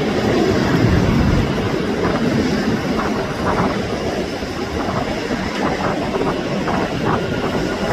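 Jet airliner engines making a loud, steady roar, with some rough crackle in the sound after a few seconds.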